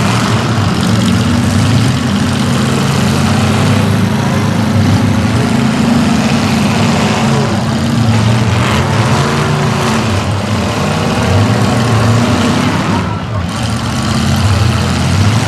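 Demolition derby cars' engines running loud and steady together, a dense mix of exhaust noise.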